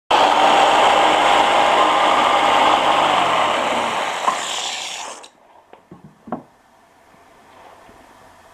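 Electric power tool switched on at full speed, running with a steady whine for about three seconds, then slowing with falling pitch and stopping about five seconds in. A few light knocks follow.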